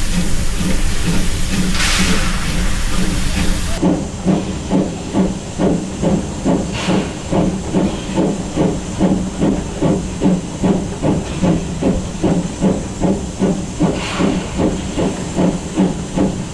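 Steam locomotive at close range: a loud steady hiss of steam for the first few seconds that stops abruptly, then the exhaust chuffing in an even rhythm at about two beats a second as the engine works.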